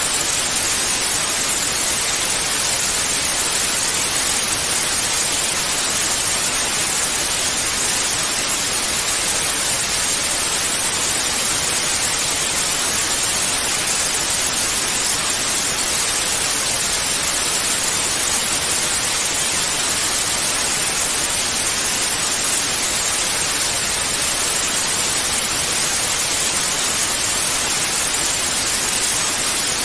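Television static: a steady, even hiss of white noise, brighter in the highs, with no change or breaks.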